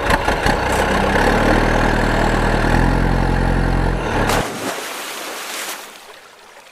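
A motor vehicle's engine starting abruptly and running loud, stepping up in pitch about halfway through. It cuts off after about four seconds, leaving a fading hiss for another second or so.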